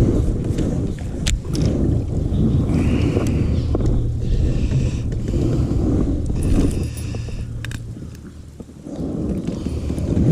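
Knocks, clicks and rubbing on a fishing kayak over a steady low rumble, from handling gear while a freshly caught bass is landed.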